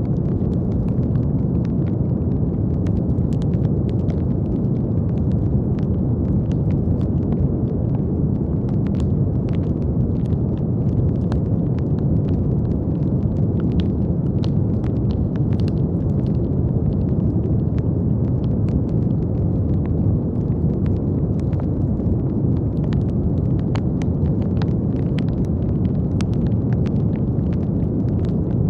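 Steady brown noise: an even, deep rushing hiss weighted to the low end, unchanging throughout, with faint scattered crackles on top.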